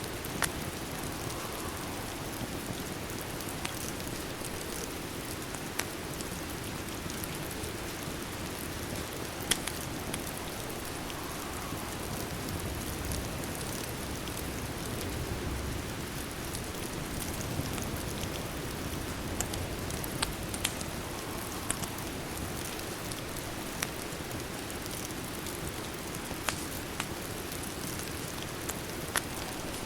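Steady rain with a fireplace crackling, a sharp pop every couple of seconds over the even hiss of the rain.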